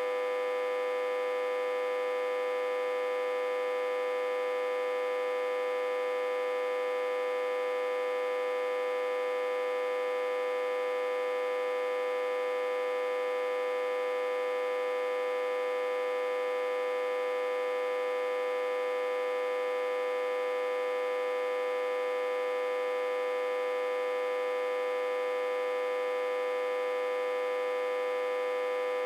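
Autotransformer humming: one steady, unchanging tone with many overtones. The hum comes from the autotransformer being reverse-connected to a step-down transformer and fed about 60 to 80 volts.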